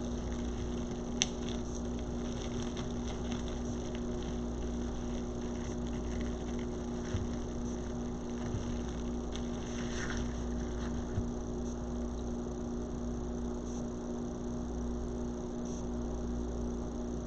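Steady low electrical hum with a few faint, scattered clicks and rustles of ribbon being handled and twisted into pipe cleaners on a wreath frame; one sharper click about a second in.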